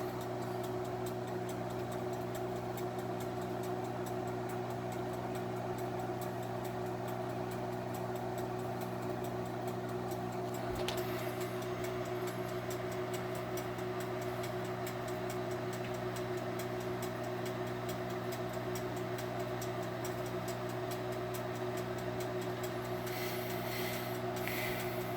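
Microwave oven running mid-cycle: a steady hum with a low drone and a few fixed tones, heating cheese nachos to melt the cheese. A faint click about eleven seconds in.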